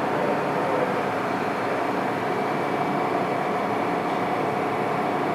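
MTR M-Train heard from inside the carriage, running steadily along the track. The wheel and rail noise carries a steady electric traction motor hum.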